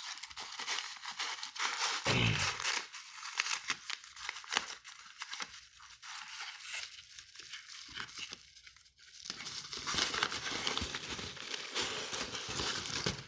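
Packaging being torn open and crinkled by hand while a parcel is unwrapped, with a brief lull about two-thirds of the way through.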